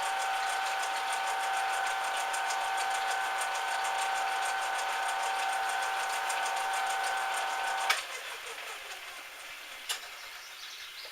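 Small metal lathe running steadily with a whine and a fast, even ticking, then switched off about eight seconds in with a click and winding down. A single sharp click comes near the end.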